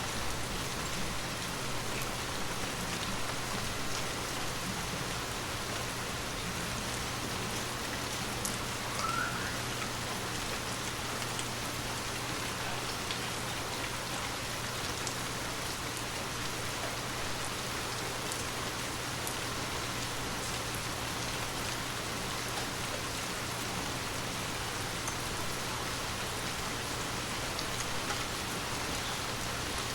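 Gentle rain falling steadily, a continuous hiss with scattered individual drops ticking.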